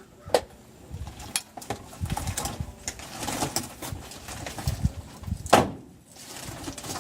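Handling noise of a person moving between a pickup's cab and a wheelchair: knocks and clacks with rustling between them, the loudest a sharp knock about five and a half seconds in.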